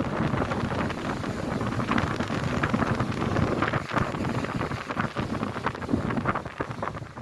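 Strong, gusty wind buffeting the microphone, easing near the end.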